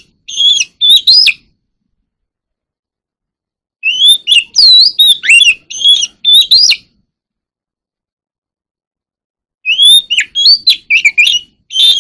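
Oriental magpie-robin singing in three short bursts of varied, loud whistled notes, rising and falling sweeps and chirps. The bursts come at the start, at about four seconds, and at about ten seconds, with silent pauses between them.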